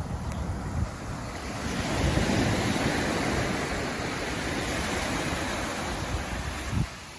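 Small waves washing onto a sandy beach, the surf swelling about two seconds in and dropping away near the end, with wind buffeting the microphone.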